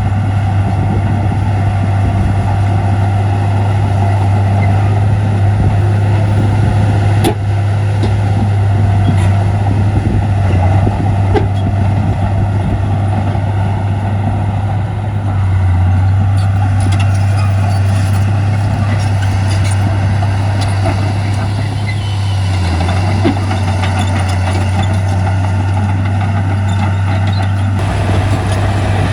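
Heavy diesel earthmoving machinery running steadily with a deep, constant engine drone, with a few sharp clanks along the way.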